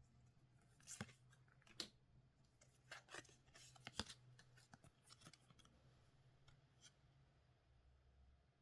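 Faint crinkling and clicking of trading-card packaging being handled: a run of short, sharp, papery sounds, loudest about two and four seconds in, dying away after about seven seconds.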